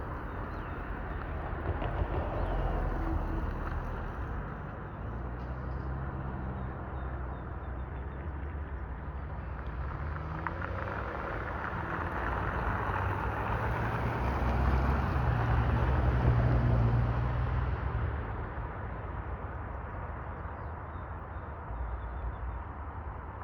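Diesel freight locomotive passing with its engine running, the engine hum and rail noise swelling to their loudest about 15 seconds in and easing off after.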